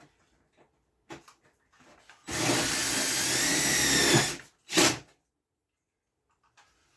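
Power drill running for about two seconds, its pitch wavering slightly, then a second short burst just after.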